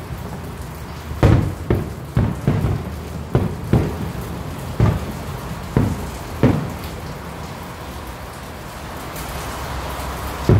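Firework shells bursting in the distance: about ten sharp, booming bangs come at irregular intervals for the first seven seconds, then a pause and one last bang at the end. Steady rain hisses underneath throughout.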